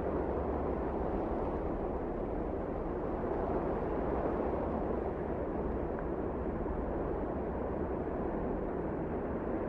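Steady rushing wind, a low, even roar that swells and eases slightly.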